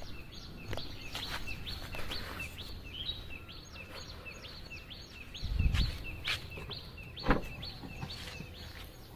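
A small bird chirping over and over, about three short chirps a second. A little past the middle comes a low thump, followed by a couple of sharp clicks.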